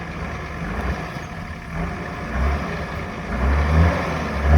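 Off-road four-wheel-drive's engine running low under load, with throttle pulses about two and a half seconds in and twice near the end, the pitch rising briefly on the last.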